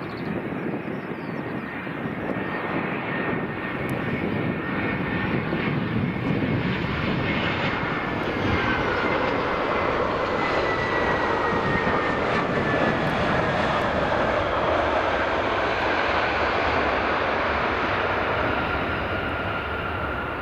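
Jet airliner's engines passing. The noise builds over the first several seconds and then holds loud, with a high engine whine that slowly falls in pitch.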